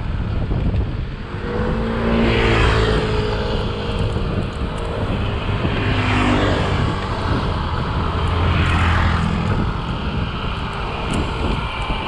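Three motor vehicles pass close by one after another, each engine swelling and then falling in pitch as it goes past, over a steady rush of wind on the microphone.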